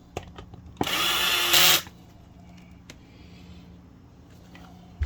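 A power screwdriver briefly driving a screw, running about a second with a steady whine that gets louder just before it stops as the screw seats.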